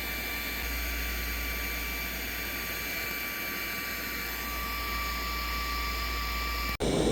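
Steady background hiss with a low electrical hum and a faint high-pitched whine. Near the end it breaks off suddenly and gives way to louder, rougher noise.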